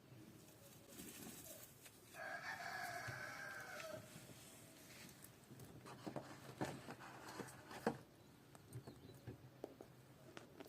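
A rooster crowing once, a call of about two seconds that dips in pitch at the end. A few seconds later comes a scatter of short, sharp taps.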